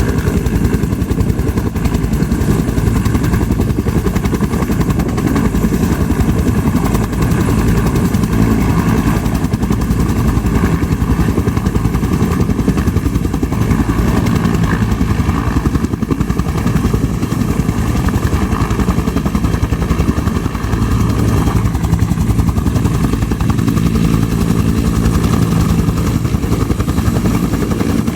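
Helicopter engine and rotor running loud and steady at close range, the sound heaviest in the low end.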